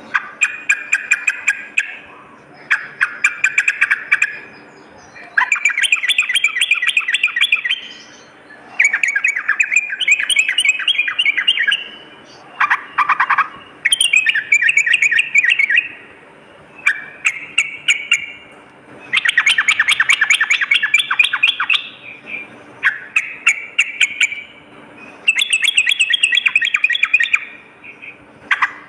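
Yellow-vented bulbul (trucukan) singing: repeated phrases of rapid notes, a new phrase every two to three seconds with brief pauses between.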